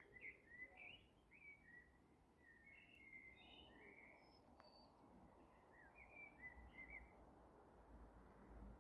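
Faint birdsong: a bird singing a run of short, quick chirping phrases over a low steady background hiss, with a single faint click near the middle.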